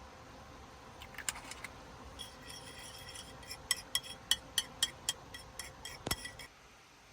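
A utensil clinking against kitchenware: a quick run of about a dozen light, ringing taps on the same object, ending with a duller knock.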